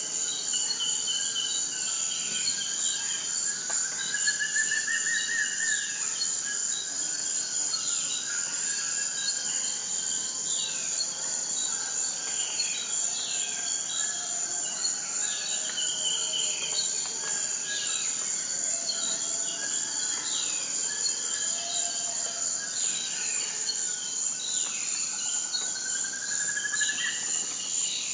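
Insects trilling steadily at a high pitch, with birds repeatedly giving short falling chirps and twice a longer rising call.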